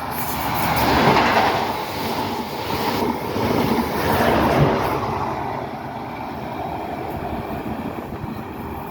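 GWR High Speed Train (HST) running through the station without stopping, its diesel power car and wheels on the rails making a broad rumble. It is loudest about a second in and again about four and a half seconds in, then settles lower.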